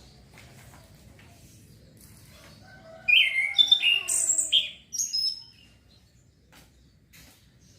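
Male orange-headed thrush, still learning its song, giving a loud burst of varied whistled notes about three seconds in that lasts about two seconds. Faint clicks come before it.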